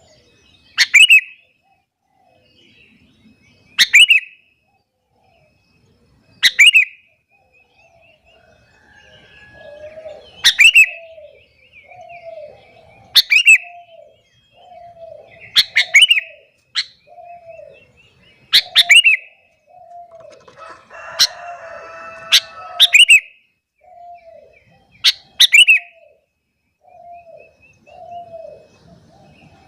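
Sooty-headed bulbul (kutilang) calling over and over, a loud, sharp, short phrase about every two and a half seconds. From about ten seconds in, a softer, lower note repeats about once a second underneath.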